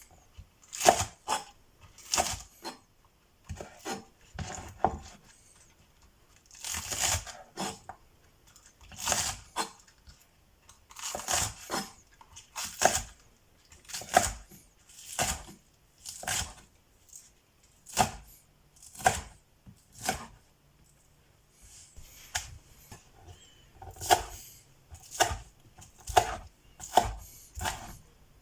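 Vegetables being prepared by hand for kimchi: a slow, irregular run of short cutting or tearing strokes, about one a second, some drawn out a little longer.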